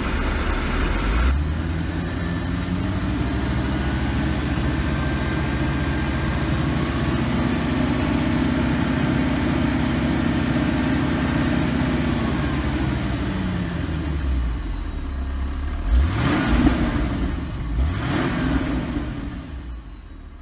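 1977 Mercedes-Benz 450 SL's 4.5-litre V8 engine running, its pitch slowly rising and then falling, with two quick revs near the end before the sound fades out.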